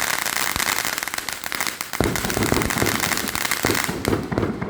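Firework crackling: a dense run of rapid pops over a hiss, with a sharper pop about two seconds in, dying away near the end.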